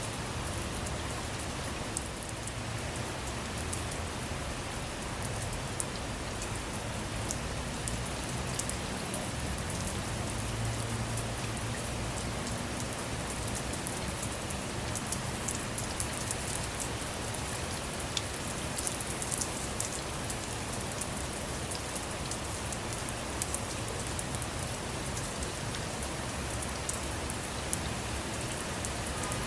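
Steady rain falling on a car, heard from inside, with many separate drops ticking against its roof and windows.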